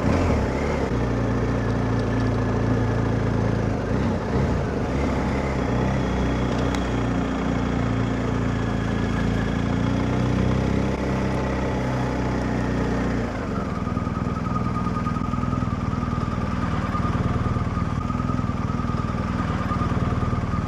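BMW R1250GS Rallye TE's boxer-twin engine running steadily under way. Its note changes about two-thirds of the way through, then holds steady again.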